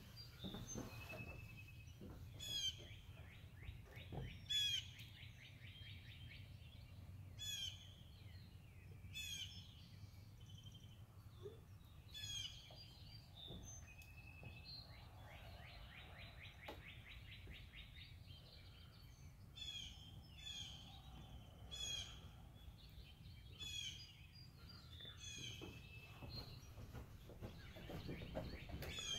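Birds singing: short clear calls repeated every second or two, with a fast trill twice in between, over a faint low rumble.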